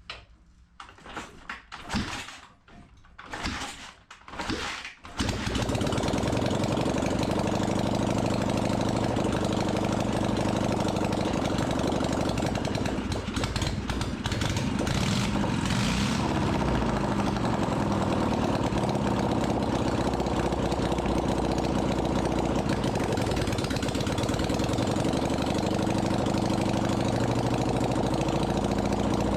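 Restored Dnepr motorcycle's air-cooled flat-twin engine on its first run: it coughs and fires irregularly for a few seconds, then catches about five seconds in and settles into steady running. Its speed rises and falls briefly about halfway through.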